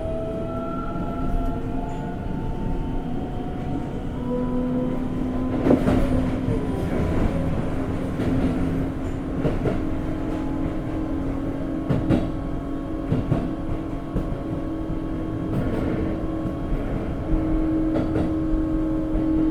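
Onboard running sound of a Keikyu 1500 series (1700 subseries) electric train with a Toyo GTO inverter: a steady rumble with motor and inverter tones, one of which rises slowly in pitch, and occasional sharp clacks of the wheels over rail joints.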